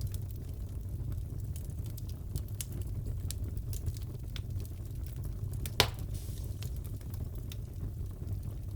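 Wood fire crackling in a fireplace: a steady low rumble with scattered small crackles and one sharp, louder pop about six seconds in.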